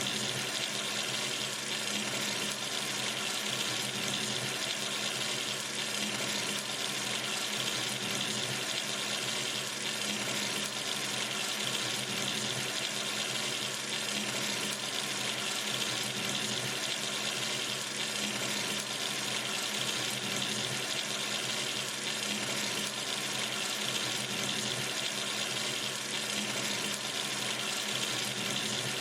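Water running steadily from a sink tap into the basin, an even, unbroken rush.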